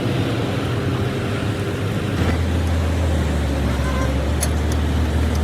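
A motor vehicle engine running steadily under a wash of noise; its low rumble deepens and grows stronger about two seconds in.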